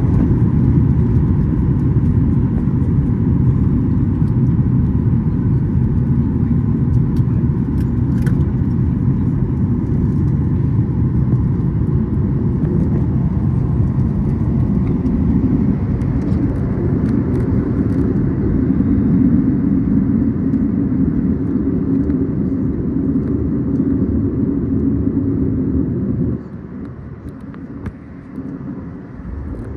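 Steady low rumble of engine and airflow noise inside a Boeing 737-8 MAX airliner cabin with its CFM LEAP-1B engines running. It drops sharply to a quieter level for the last few seconds.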